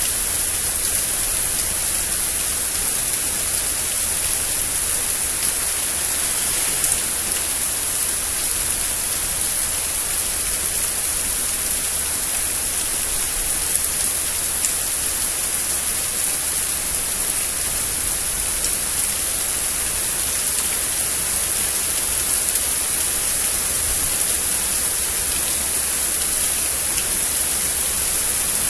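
Steady rain in a thunderstorm: an even hiss with a few sharper drop ticks scattered through it.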